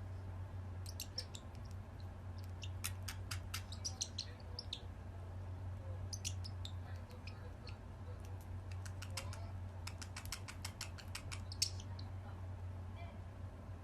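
Parrot making short, faint chirps and clicks at irregular intervals, over a steady low hum.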